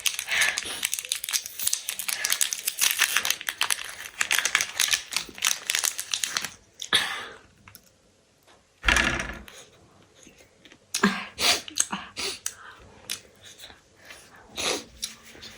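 Crinkling and rustling of food packaging handled close to the microphone for about six seconds. A single loud thump follows about nine seconds in, then scattered light clicks and taps.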